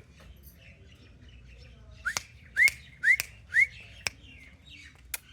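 Pet parrot giving four short rising whistled chirps, about half a second apart, followed by a few sharp clicks.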